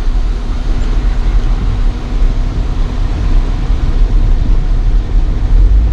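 Vehicle driving along a rough dirt trail: a steady, loud low rumble of engine and road noise.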